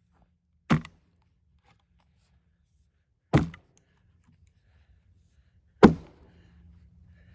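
Three heavy blows, a few seconds apart, driving splitting wedges into a cedar log to split it into rails; each one is a sharp, short crack with a quick ring-off.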